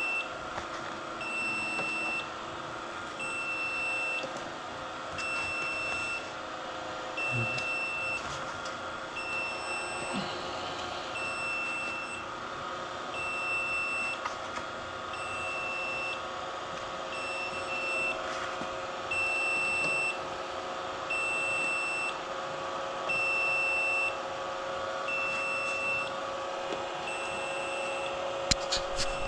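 Egg incubator's low-temperature alarm beeping: a short, high beep about once a second over a steady hum. The alarm warns that the temperature inside has dropped because the incubator is open.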